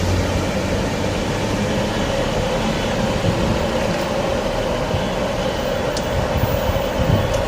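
Passenger train pulling away from the station platform and running past, a steady rumble with a constant hum.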